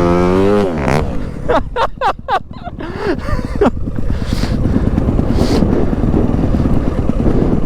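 Dirt bike engine running with a fast, even chatter that gets louder from about three seconds in and holds steady.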